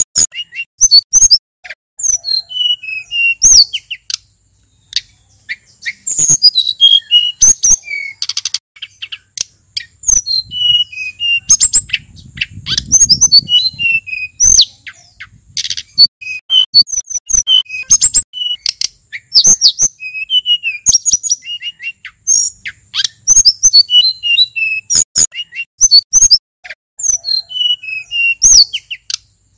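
A male sulingan gunung songbird singing a fast, varied song of short whistled notes and quick chirps, broken by brief pauses.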